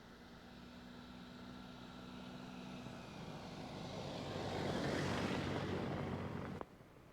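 Vehicle and road noise that builds to a peak and then cuts off abruptly near the end.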